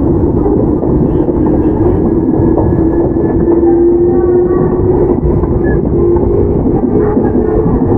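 Toyama Chiho Railway 17480-series electric train (ex-Tokyu 8090 series, field-chopper control) running along the line, heard from inside the car: a steady, loud rumble of wheels on rail with a low motor whine that rises a little in pitch over the first few seconds and then fades.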